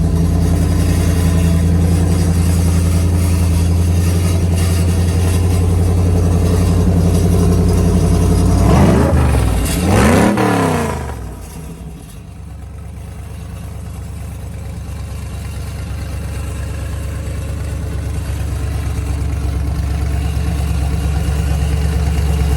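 A show car's engine running at a steady idle, blipped twice in quick succession about nine seconds in, then settling back to a lower, steady idle.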